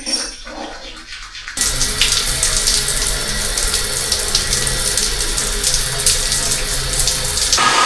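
Water running hard and steady from a tap, starting suddenly about a second and a half in.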